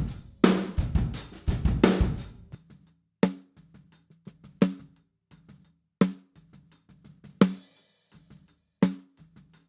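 Recorded drum kit playing a groove with kick, snare and cymbals; about three seconds in, everything drops away except the snare drum's close microphone, soloed. Single snare backbeats then come about every second and a half, each with a short ringing tone, and the rest of the kit bleeds faintly into the snare mic between them.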